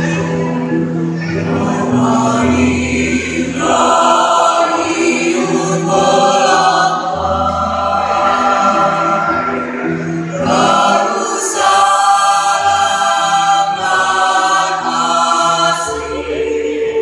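A choir singing in harmony, several voice parts holding and changing notes together, with low sustained notes underneath.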